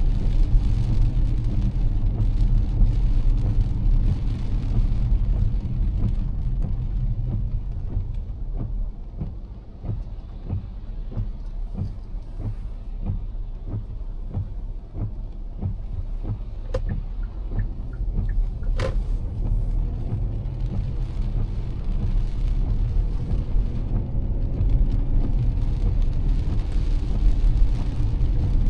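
Car driving through heavy rain: a steady low road and engine rumble with rain falling on the car. The rumble eases for a stretch in the middle, where many small raindrop taps stand out, with one sharper tap a little past halfway.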